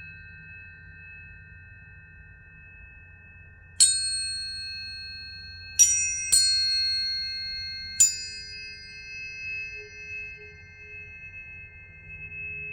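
Planetary tuning forks struck four times, each strike a sharp ping that leaves clear, steady tones ringing and slowly fading, layered over forks already sounding.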